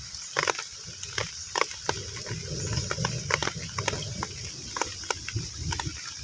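Heavy rain falling on a pond, with a steady hiss and many separate drops plinking on the water surface at irregular intervals, over an uneven low rumble.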